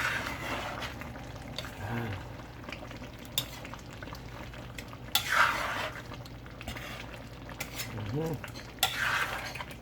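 A spoon stirring chicken curry with potatoes in a pot, clicking and scraping against the pot, with two louder scraping swishes about five and nine seconds in. A steady low hum runs underneath.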